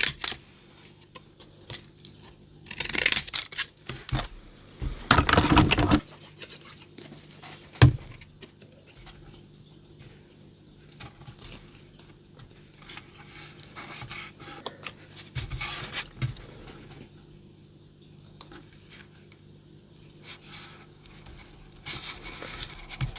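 Card-making work at a desk: paper and crafting tools handled, with two rustling stretches early on and a sharp knock about eight seconds in, then scattered small clicks and scrapes.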